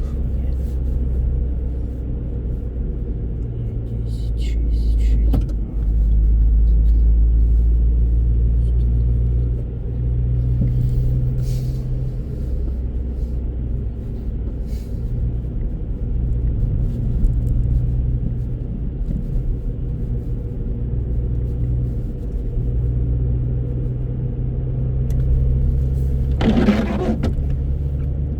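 Car driving: a steady low rumble of engine and road noise that swells and eases slightly in level. A brief vocal sound comes near the end.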